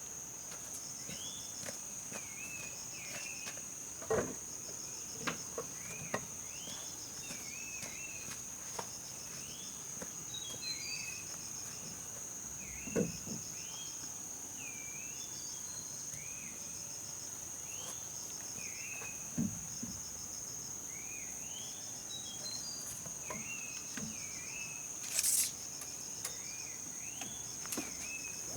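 Outdoor forest ambience: a steady high insect drone with repeated cricket-like chirps, a bird calling over and over with short rising-and-falling notes, and a few scattered knocks, the loudest a short noisy burst about 25 seconds in.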